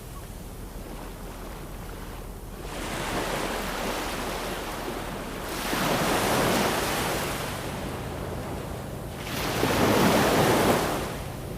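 Ocean waves breaking and washing in on the shore in slow surges, three times. The last surge, near the end, is the loudest.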